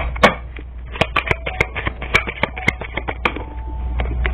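Tarot cards being shuffled and handled: a string of irregular sharp clicks and taps.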